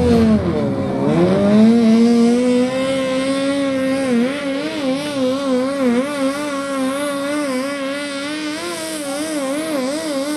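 Pulling tractor's engine running hard at high revs under load; its pitch drops sharply about half a second in, climbs back, then holds high with a constant wavering as it pulls.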